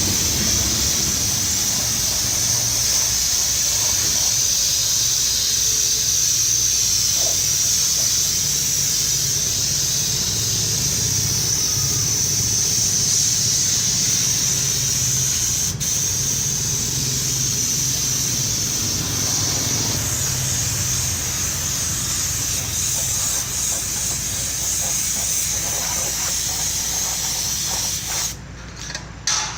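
A steady, loud hiss over a low hum, breaking off briefly near the end.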